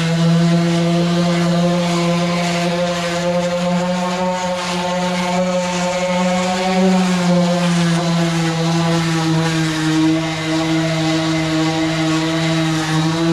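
Handheld power sander running steadily with a constant hum, its pitch dipping slightly now and then as it is worked against the truck's aluminum.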